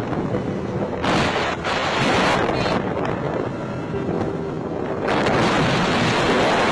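Wind buffeting the microphone in heavy gusts, about a second in and again near the end, over the steady running of a small boat's engine.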